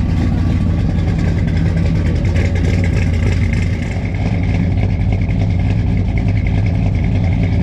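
Ford 347 stroker V8 with aluminium heads, in an old farm truck, idling steadily with a choppy, lumpy cammed idle.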